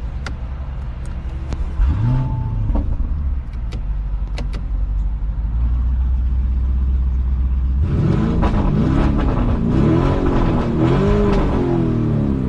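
Lamborghini Urus twin-turbo V8 starting with a short rising flare about two seconds in, settling into a low idle rumble, then revved up and down several times in the last third.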